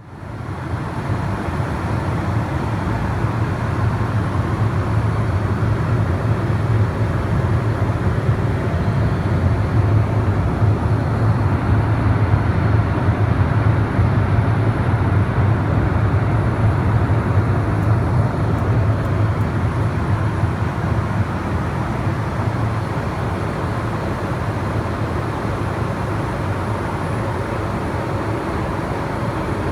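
Steady low rumble of a moving vehicle heard from inside, with a faint high whine above it, fading in at the start.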